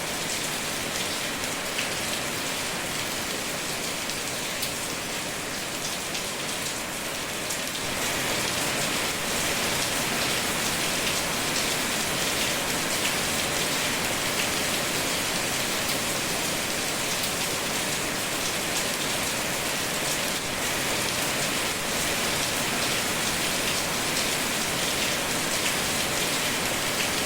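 Steady rain falling, a dense even hiss with faint scattered drop ticks, growing a little louder about eight seconds in.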